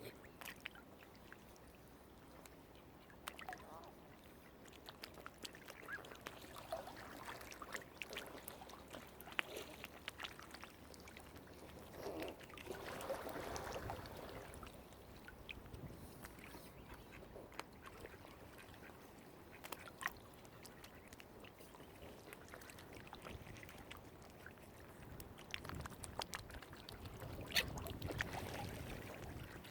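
Faint, scattered calls of waterfowl on the water, with many small clicks and light splashes between them; the longest calls come about halfway through and near the end.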